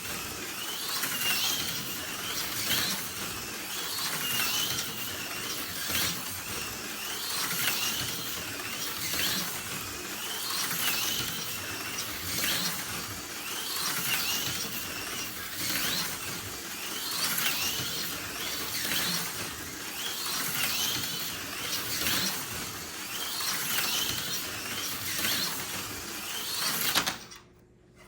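Tomy Super G Plus HO slot car, running its factory 6-ohm armature, lapping a plastic slot track: the whine of its small can motor mixes with the rattle of wheels and pickup shoes on the rails. The sound swells and fades about every two seconds as the car circles, then cuts off suddenly near the end.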